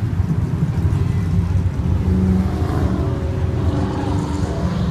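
Low, continuous rumble of classic car engines running in slow street traffic, with an engine note swelling briefly about two seconds in.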